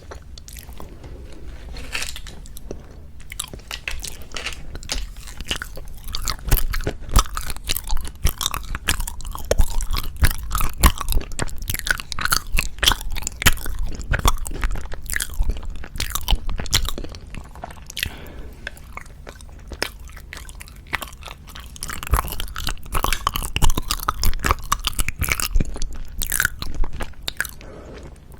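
Close-miked chewing of Japanese wagashi sweets: a dense run of small wet mouth clicks. The chewing gets busier about a quarter of the way in, eases off a little past the middle, then picks up again.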